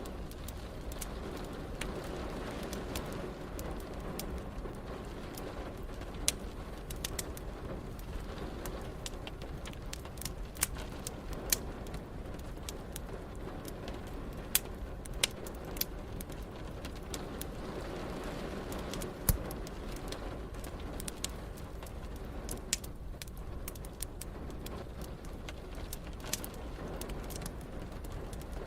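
Wood fire crackling in a fireplace, with frequent small snaps and a dozen or so sharper pops, over a steady hiss of rain.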